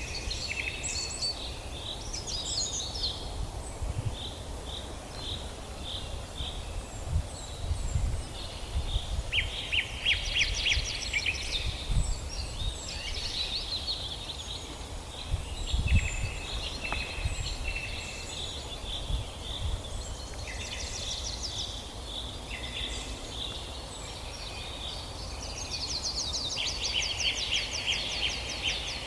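Several songbirds singing and calling over one another in a forest, with quick chirps and fast trills throughout. A steady low rumble lies underneath, with a few louder low thumps in the middle.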